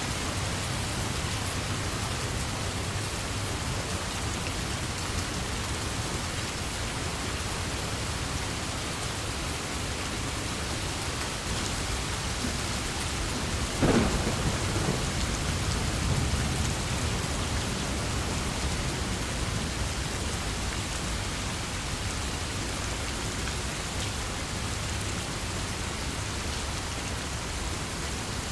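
Steady heavy rain with a single thunderclap about halfway through: a sharp crack followed by a low rolling rumble.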